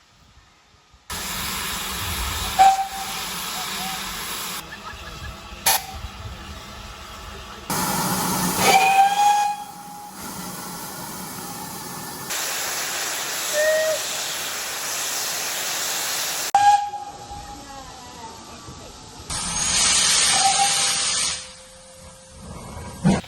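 Steam locomotives venting steam with loud hissing, broken by several brief whistle toots. The sound changes abruptly several times as one clip cuts to the next.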